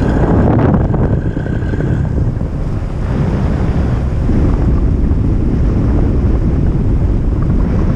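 Airflow rushing steadily over the microphone of a gliding aircraft with its engine off. A faint steady high tone sounds for about the first two seconds, then stops.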